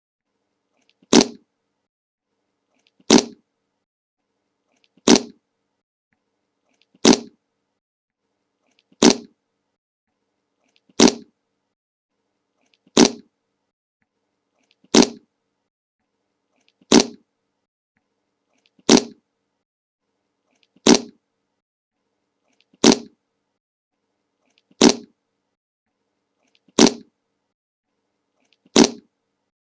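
A short fart sound effect played on a loop: the same brief fart repeats about every two seconds, fifteen times, with silence in between.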